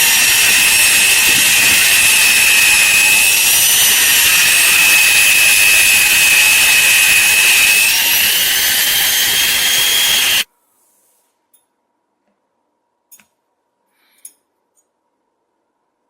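Small high-speed power tool working metal with a loud, steady, high-pitched whine. The pitch rises slightly about eight seconds in, then the sound cuts off suddenly. A few faint clicks follow.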